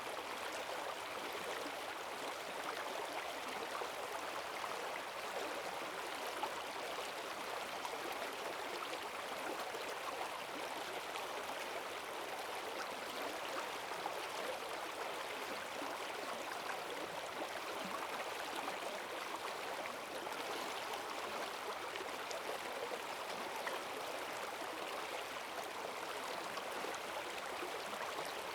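Forest stream swollen by heavy rain, rushing and gurgling steadily over its bed.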